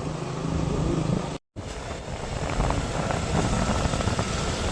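A vehicle engine running steadily, with road and wind noise, during a ride. The sound cuts out for a moment about one and a half seconds in.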